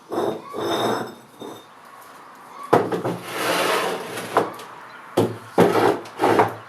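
Concrete blocks being set down and shifted on a wooden table: a long gritty scrape and several hard knocks of block on block and wood.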